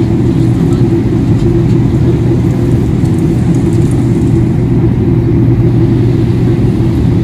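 Steady, loud low rumble of cabin noise aboard a Boeing 777-300ER airliner, engine and airflow noise holding even with no changes.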